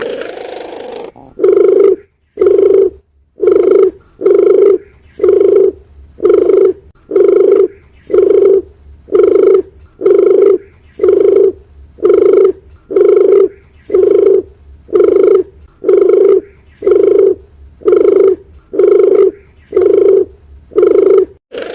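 Dove cooing: a longer sliding coo at the start, then a long, even run of short low coos, about one and a half a second, used as a lure call for wild doves.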